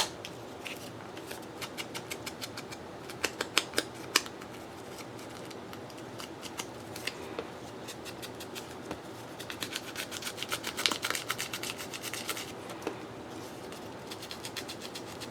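Paper being cut and worked by hand: scattered snips and scratchy rubbing strokes, with a fast run of quick scratchy strokes about two-thirds of the way through and a shorter one near the end.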